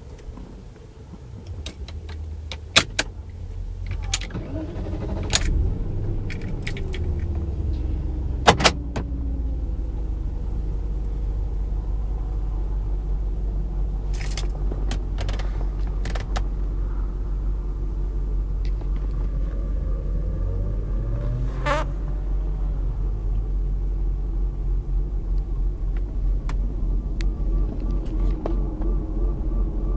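BMW 530i car running with a steady low drone that builds over the first few seconds and then holds. Several sharp clicks and knocks come in the first ten seconds or so, and there are a few slow rises and falls in pitch.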